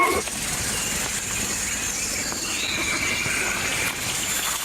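Forest ambience: a steady high insect drone over background hiss, with one drawn-out call, rising then falling, about two and a half seconds in.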